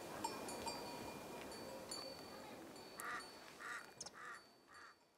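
Faint outdoor ambience with light tinkling, chime-like tones, then from about three seconds in a bird calling in a short repeated series, about two calls a second, as the sound fades out at the end.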